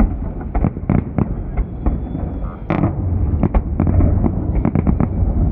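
Festive fireworks salute: shells bursting in a rapid, irregular series of sharp cracks over a continuous low rumble, with one bigger burst about halfway through.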